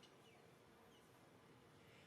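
Near silence: faint outdoor background with a low steady hum and a few faint high chirps.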